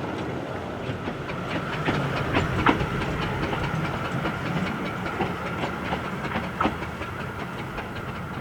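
A 15-inch gauge passenger train running along the track: a steady rumble with irregular sharp clicks from the wheels passing over rail joints.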